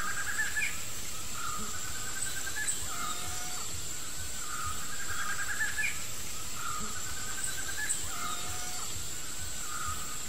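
Outdoor ambience with a bird calling over and over in short, quickly stepped phrases, over a steady high-pitched whine.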